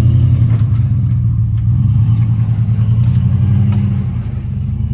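Off-road truck engine running at low, steady revs, its pitch climbing a little about three and a half seconds in and easing off near the end.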